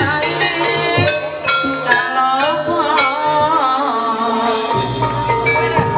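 Traditional Javanese ebeg accompaniment music: struck pitched keys and drum with a singer's wavering, ornamented vocal line.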